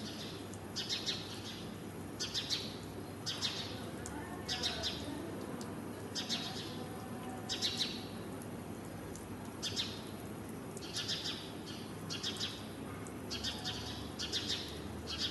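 A bird chirping repeatedly in short bursts of a few quick notes, about once a second, over a steady background hiss.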